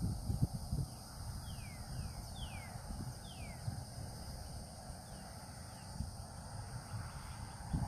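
Birds calling outdoors: a series of short whistles, each sliding downward in pitch, several times, over a steady high insect drone and low rumble from wind or handling on the microphone.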